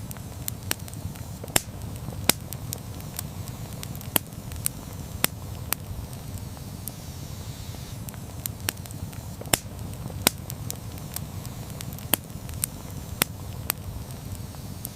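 Campfire crackling: irregular sharp pops and snaps, a few of them loud, over a steady low rumble.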